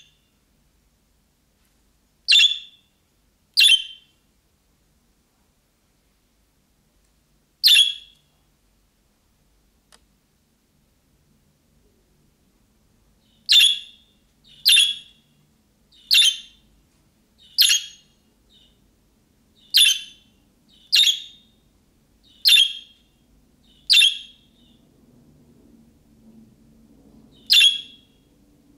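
Budgerigar calling: a string of short, sharp single calls, a few scattered ones at first, then one about every second and a half.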